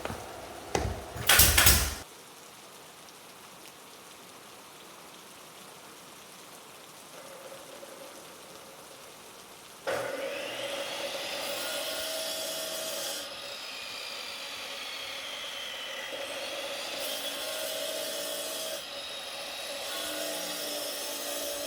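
A few loud knocks, then from about ten seconds in a power tool running steadily, its pitch and hiss shifting several times as it works.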